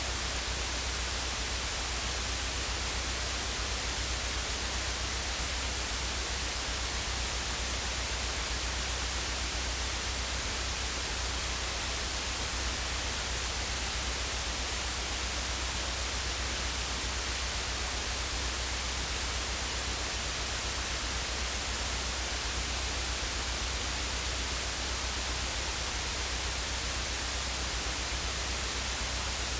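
Steady static hiss with a constant low hum underneath, unchanging throughout.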